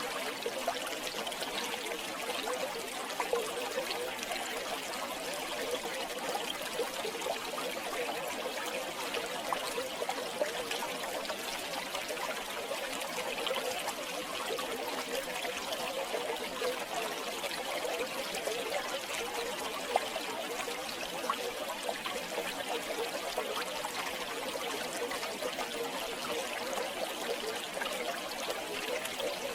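River water flowing and burbling steadily, with small splashes and trickles over a constant rushing.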